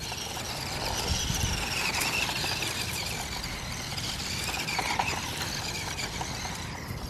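High whine of a small electric RC car motor, its pitch drifting up and down as the car is driven, over low outdoor rumble.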